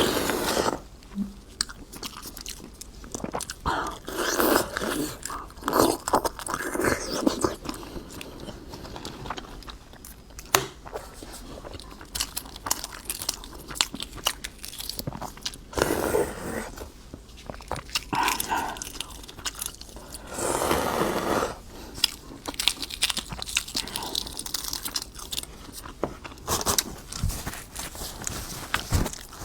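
Close-miked eating: biting and chewing a huozhuzi (partly developed egg), with many small crunches and wet mouth sounds.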